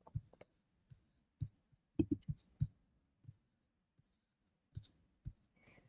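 Scattered faint clicks and light knocks, about eight in all, with a small cluster a couple of seconds in.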